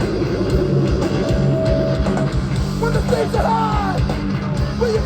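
Live hardcore punk band playing loud, with distorted guitar, bass and drums; from about three seconds in, higher notes bend up and down over it.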